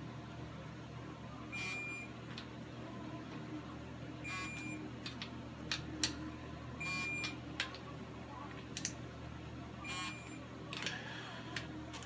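Ratchet wrench clicking in four short bursts as the intake manifold bolts are rechecked for tightness, with sharp single clicks of metal tools between them.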